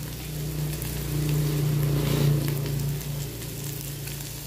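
Goat meat and spices sizzling in a hot wok, with scattered crackles. A low hum grows louder in the middle and then fades.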